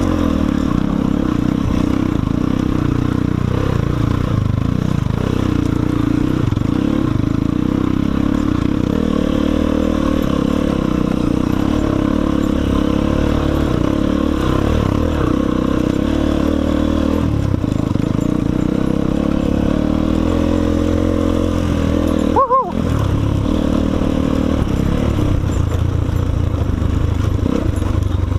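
Enduro motorcycle engine running steadily while being ridden. About twenty-two seconds in there is a brief break in the sound.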